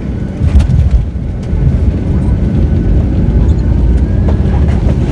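Cabin noise inside a Boeing 737-800 landing: a heavy low rumble of engines and airframe that swells sharply about half a second in and runs louder from about a second and a half on, with a few light rattles.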